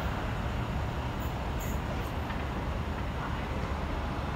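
Train running away from the station along the line, heard as a low steady rumble.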